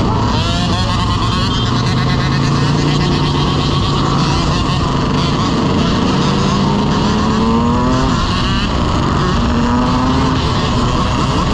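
Several dirt bike engines running and revving together, their pitches rising and falling and overlapping.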